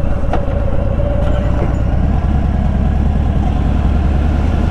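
Motorcycle engine running steadily at idle or low speed.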